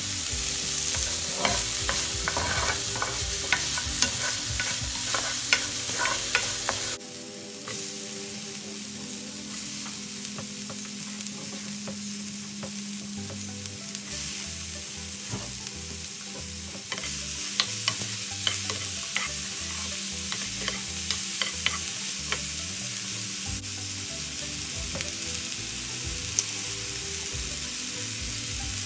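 Diced onion, then sliced mushrooms and red capsicum, sizzling in oil in a frying pan while a spatula stirs them, with many short clicks and scrapes of the spatula against the pan. The frying drops in level suddenly about seven seconds in and rises again around seventeen seconds.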